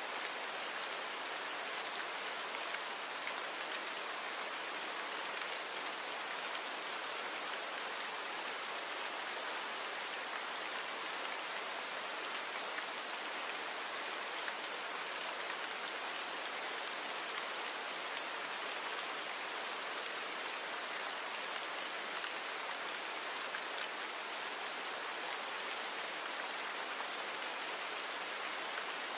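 Steady rain falling on a surface, an even hiss of many fine drops, with a few slightly louder drop ticks.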